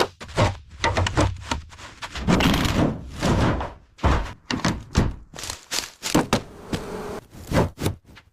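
Irregular knocks and thuds of tools and metal parts being worked while a truck is stripped of its damaged parts, with a longer stretch of scraping about two seconds in.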